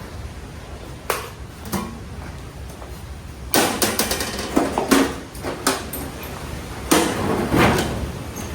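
Metal parts and tools being handled, knocking and clattering. There is a sharp knock about a second in, then longer stretches of rough clattering and scraping midway and again near the end.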